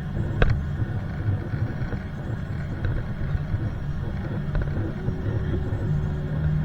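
Airliner cabin noise: a steady low rumble from the jet engines and airframe, heard from inside the passenger cabin, with one sharp click about half a second in.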